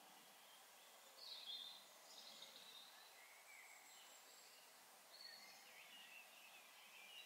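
Faint bird calls: scattered short chirps and whistles, some sliding in pitch, over a steady hiss, with a slightly louder call about a second and a half in.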